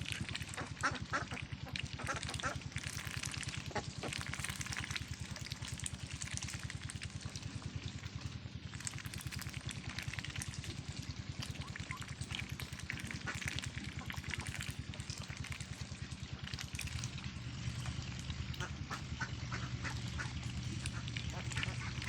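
A flock of ducks and ducklings calling and quacking over and over, over a steady low hum that gets louder about 17 seconds in.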